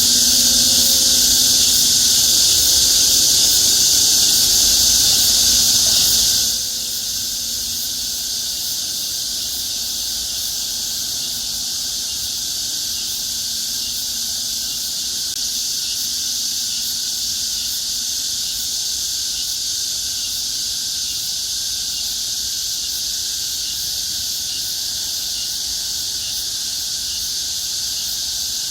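Cicada chorus, a dense high-pitched drone. It drops suddenly to a lower, steady level about six seconds in.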